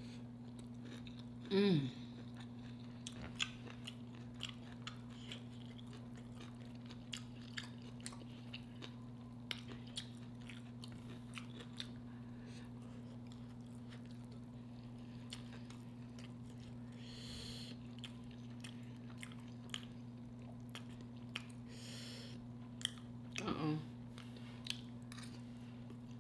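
Close-up chewing of fried red snapper and sautéed cabbage, with small clicks of a fork against the plate, over a steady low hum. A short falling vocal sound from the eater comes twice, about two seconds in and near the end.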